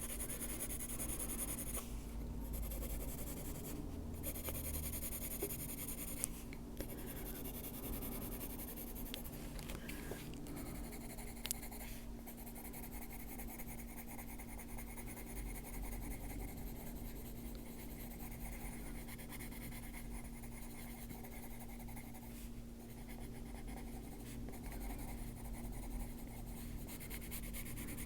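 Colored pencil scratching on paper in steady, repeated short strokes as small lines are laid down.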